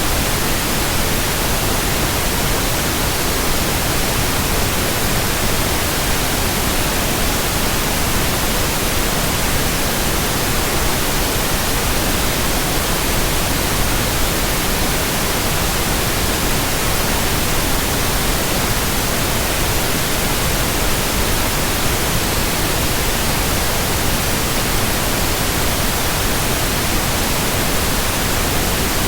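Steady, unchanging white-noise hiss, even from low to very high pitches, with no rhythm or change in level.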